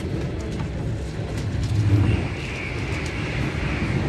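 Passenger train running, heard from on board: a steady low rumble of wheels on the track, with a higher hiss joining about halfway through.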